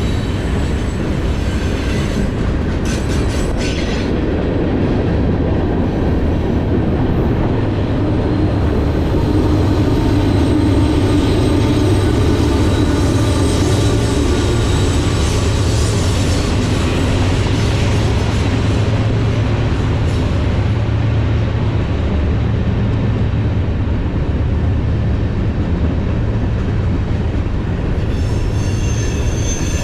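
Freight train cars rolling past with a steady rumble of steel wheels on rail. Thin wheel squeal rises near the end.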